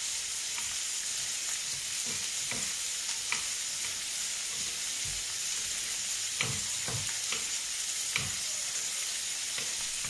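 Octopus tentacles and asparagus tips sizzling steadily as they brown in a frying pan, with a few scattered light knocks.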